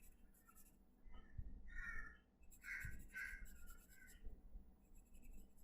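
Crows cawing faintly in the background, a few short caws bunched about two to three seconds in, with softer ones around them. Light pencil scratching on paper runs beneath.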